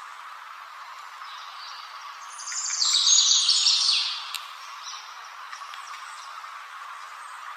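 A perched songbird gives one loud burst of rapid high chirping about two and a half seconds in, lasting about a second and a half, over a steady background hiss.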